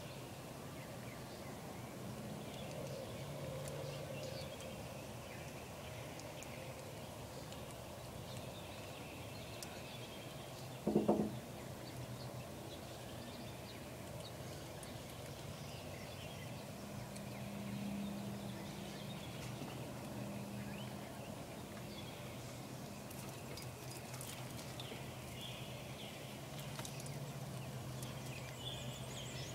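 Steady background noise with a low hum and faint, scattered bird chirps. About eleven seconds in comes one short, loud pitched sound.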